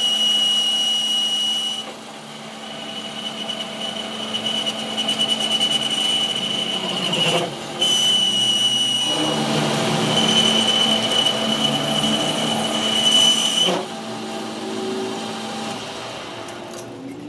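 Workshop machine running with a steady high whine over a lower hum. It is briefly interrupted about 2, 7.5 and 14 seconds in, and runs quieter near the end.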